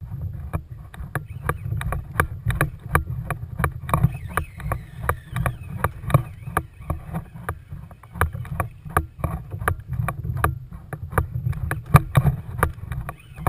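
Rapid, regular clicking, about three to four clicks a second, over a low rumble of wind on the microphone.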